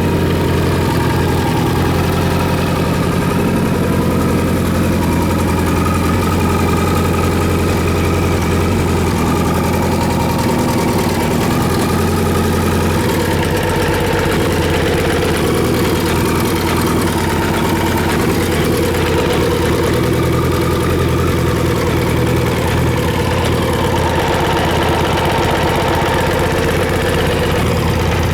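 Kawasaki Z1000J's air-cooled inline-four engine idling steadily at an even pitch.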